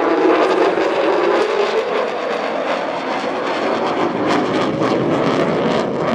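A display aircraft flies past with a loud, continuous engine roar. Its pitch falls over the first couple of seconds as it passes, then it carries on as a steady roar.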